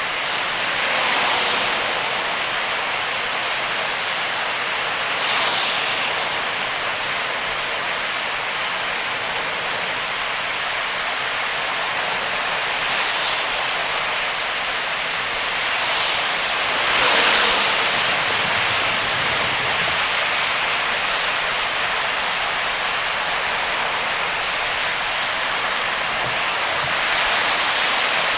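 Heavy rain and tyre spray on a wet expressway heard from a moving car: a steady hiss, with brief louder whooshes every few seconds.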